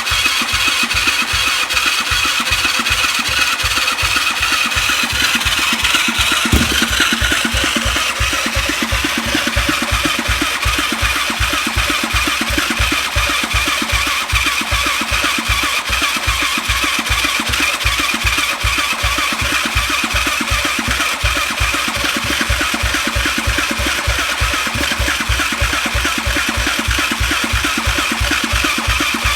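Suzuki LT-R450 quad's single-cylinder engine cranking on its electric starter, a steady rhythm of compression pulses under the starter's whine, without catching: the engine won't start even though it has good spark.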